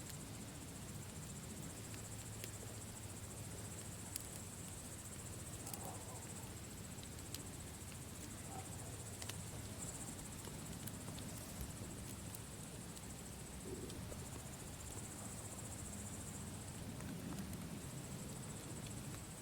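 Campfire crackling, with a few sharp pops scattered over a low steady rush, and crickets trilling at a steady high pitch.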